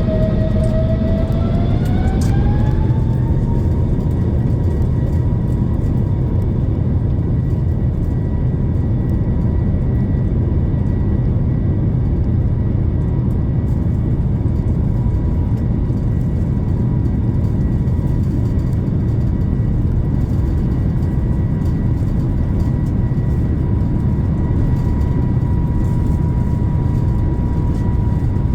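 Airbus A350-900's Rolls-Royce Trent XWB engines spooling up for take-off: a whine rises in pitch over the first three seconds or so, then holds steady over a heavy rumble at take-off thrust.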